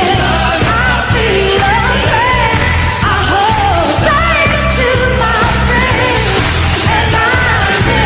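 Live pop music: a female lead vocalist singing winding melismatic runs over a band with a steady bass beat.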